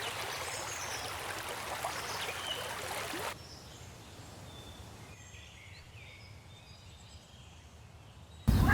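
Natural outdoor ambience: a steady hiss like running water with faint, scattered bird calls. About three seconds in it cuts abruptly to a quieter bed with a few distant bird calls, and a loud sound starts right at the end.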